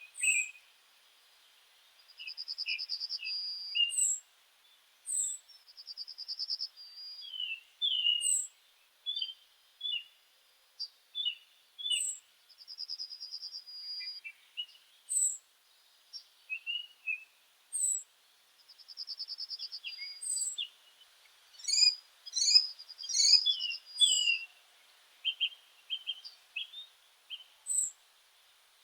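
Meadow songbirds singing: high, thin downslurred notes and chirps, with a buzzy trill about a second long that comes back every few seconds. Near the end several calls overlap in a brief busy burst.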